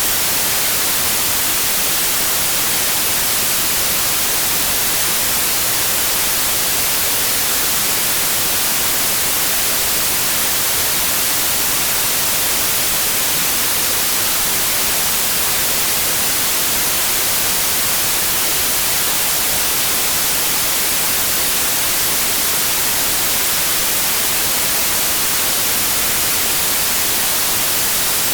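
Steady white noise: an even, unbroken hiss, brightest in the high frequencies, played as a sleep aid for colicky babies.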